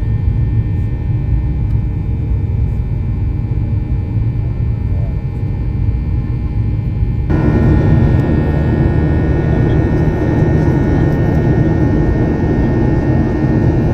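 Passenger jet airliner's engines: a steady low rumble that about halfway through becomes suddenly louder and fuller, with a steady whine over it.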